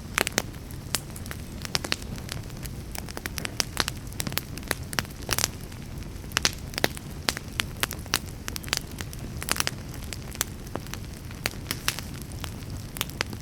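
Wood fire burning in a fireplace, crackling and popping with many irregular sharp snaps over a low steady rumble of the flames.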